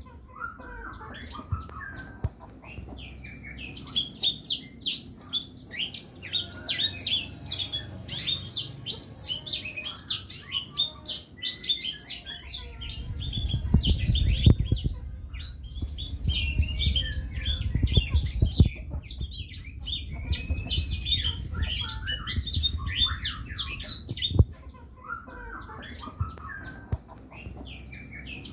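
Black-throated canary singing long, fast phrases of high twittering chirps and trills, with short pauses between phrases and a low rumble under the song midway.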